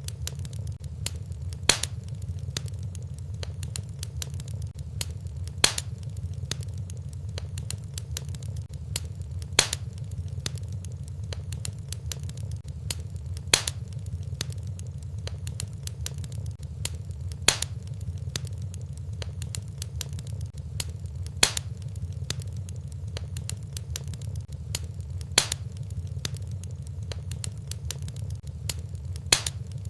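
Fireplace wood fire crackling over a steady low rumble, with many small ticks and a louder sharp pop about every four seconds.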